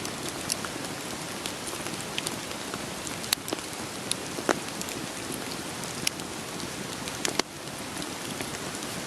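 Steady rain hiss mixed with a crackling wood fire: a scatter of small ticks and a few louder snapping pops, about three and a half, four and a half and seven and a half seconds in. After the last pop the hiss drops slightly.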